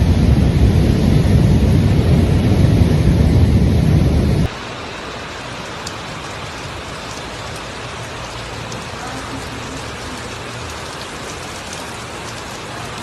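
Loud low rushing rumble of a flash-flood mudslide, water and debris pouring down. About four and a half seconds in it cuts off abruptly to a quieter, steady hiss like rain falling on a surface.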